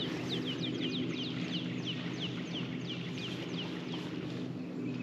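A bird calling a fast run of short down-slurred chirps, about four a second, that tails off about four seconds in, over a steady low hum.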